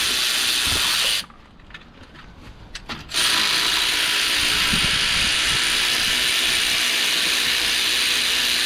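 Steady loud hiss of rain. It drops away for about two seconds just after the start, leaving scattered clicks of a ratchet spanner working on the gearbox.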